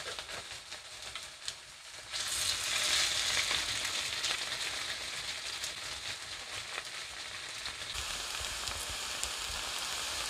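Zucchini and carrot fritters frying in oil in a pan. A few light clicks sound at first, then about two seconds in a steady, loud sizzle sets in and holds.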